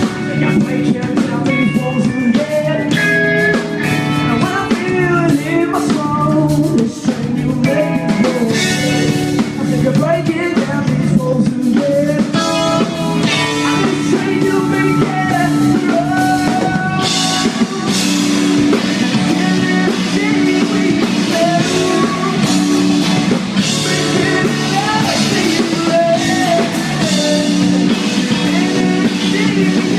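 Live rock band playing loudly, with electric guitar and a drum kit.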